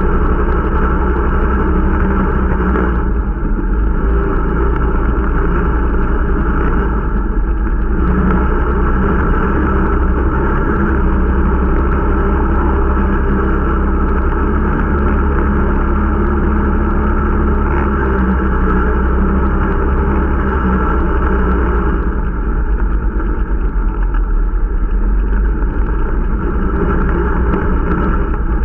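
Irbis Dingo T125 snowmobile's 125 cc four-stroke single-cylinder engine running steadily under way, with small changes in throttle a few times, during the new machine's break-in ride.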